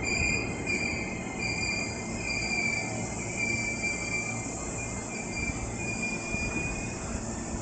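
Hankyu 1300 series electric train standing at the platform, its equipment giving a steady low hum, while a high tone repeats in short pulses of about half a second, nearly one a second.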